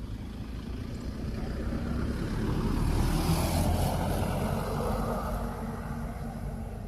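A vehicle passing by: its engine and road noise swell to a peak about three to four seconds in, then fade away.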